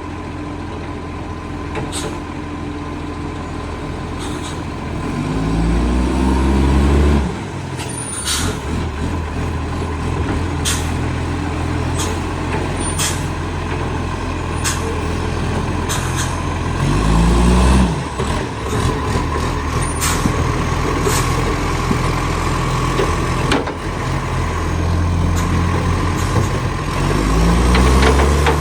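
Garbage truck's diesel engine running with an exhaust leak. It revs up three times over a steady idle, with scattered sharp ticks throughout.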